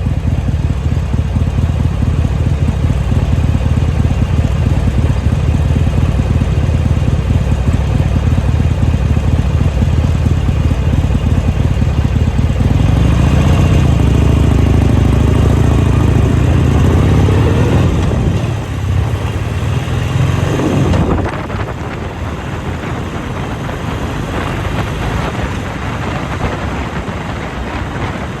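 Motorcycle engine running under way. Its note climbs as it accelerates about halfway through, then falls off, and about two-thirds of the way in it drops away, leaving mostly wind rushing over the microphone.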